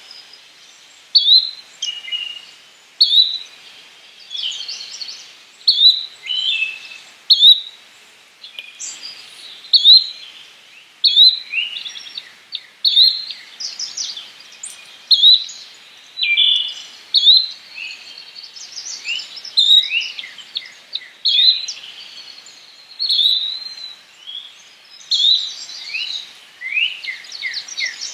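Yellow-bellied flycatcher calling: short upward-slurred notes repeated about every second or two, with other birds' chirps overlapping and growing busier near the end.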